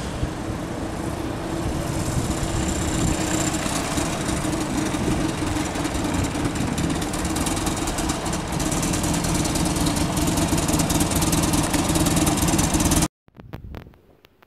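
Buell Firebolt XB12R's air-cooled V-twin running as the bike is ridden slowly, getting louder over the first couple of seconds. The sound cuts off suddenly near the end.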